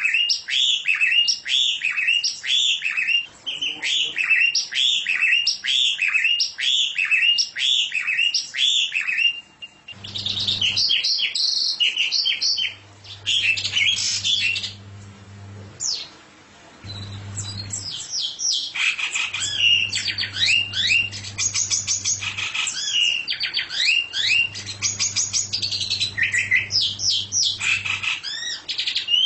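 A songbird singing: first a steady run of repeated down-slurred whistled notes, about two a second, for some nine seconds, then after a brief pause a faster, varied string of chirps and trills.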